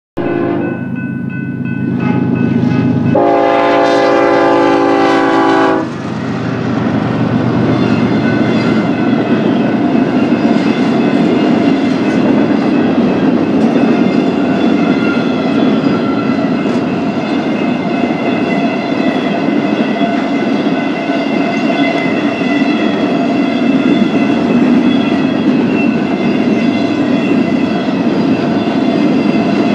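BNSF freight locomotive sounding its horn, a loud chord of several notes held for about three seconds a few seconds in. After that the train passes: the locomotive engines run and the wheels clatter steadily along the rails.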